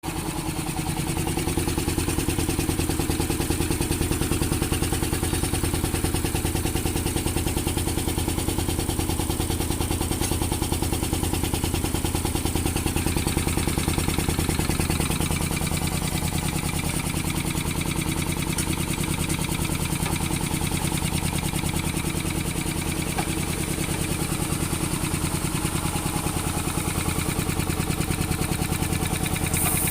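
Swan SVP-205 piston air compressor, driven by a 3.7 kW three-phase electric motor, running steadily with a fast, even pulsing.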